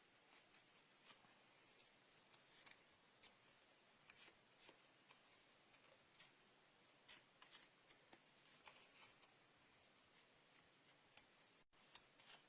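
Faint, scattered small clicks and snips from paper-crafting work at a table, coming irregularly every half second to second or so.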